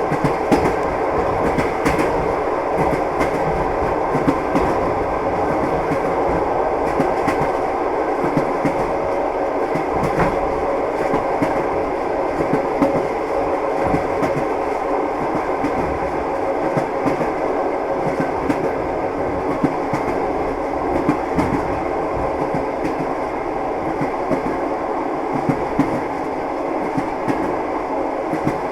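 Rolling noise of a train carriage in motion, with the irregular clickety-clack of wheels over rail joints.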